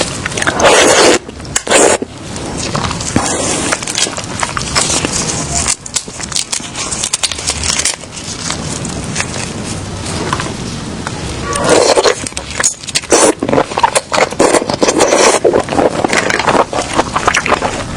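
Close-up eating sounds from seafood: crackling and scraping of shells being handled and broken, mixed with chewing, as a dense run of small clicks and crackles.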